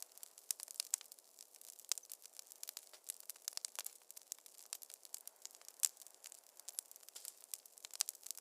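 Wood fire crackling in a fireplace: a dense, irregular run of small sharp pops and snaps over a faint hiss, with one louder pop near the end.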